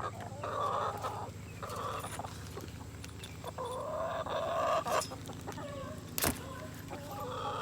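Chickens clucking in a series of drawn-out calls, with one sharp click a little after six seconds.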